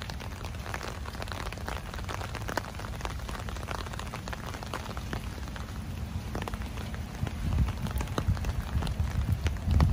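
Rain falling, with many individual drops ticking sharply close to the microphone. Low rumbling builds over the last three seconds and is loudest near the end.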